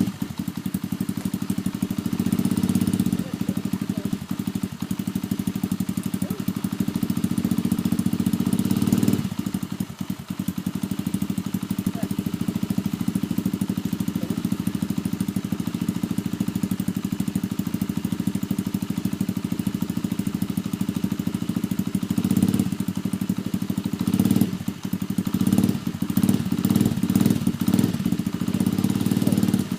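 125cc dirt bike engine idling steadily, its note swelling and dipping a few times in the last several seconds.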